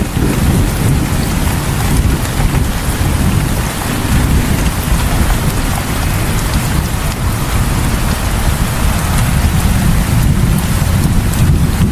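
Heavy rain falling steadily, an even wash of noise with a deep rumble underneath.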